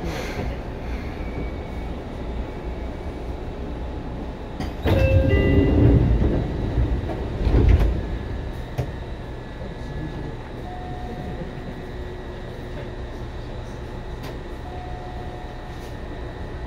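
Running sound inside a Seibu 2000 series electric commuter train car: a steady low rumble. About five seconds in, a sudden loud rush of noise cuts in, lasts about three seconds, swells again and dies away, and the steady running sound returns.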